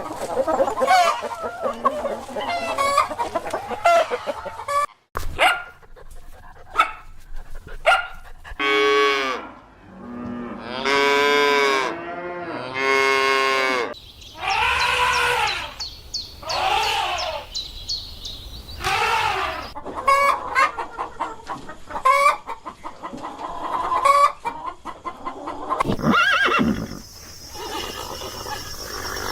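Chickens clucking, with long drawn-out crowing calls from roosters near the middle.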